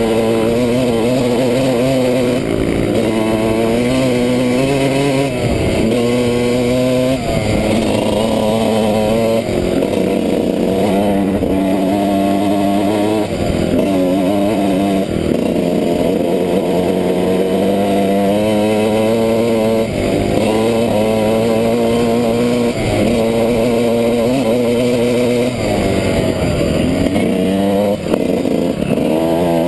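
Off-road motorcycle engine ridden hard on a trail: it revs up and drops back again and again as the throttle is opened and closed and gears are changed, heard close up from the bike.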